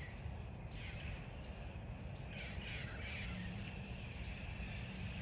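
A bird calling a few times, short curved calls a second or more apart, over a steady low rumble.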